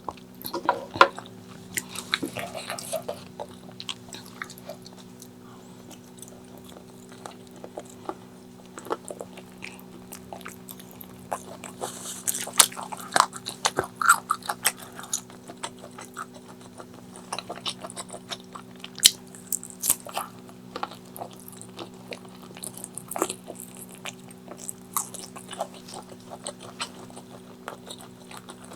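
Close-miked eating: irregular wet chewing and biting, with many sharp smacking clicks of the mouth, over a steady low electrical hum.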